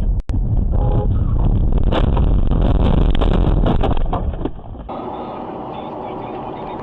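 Car road and engine rumble heard from inside a moving car, with a run of sharp clicks and knocks in the middle. About five seconds in it cuts abruptly to a quieter, thinner-sounding road recording.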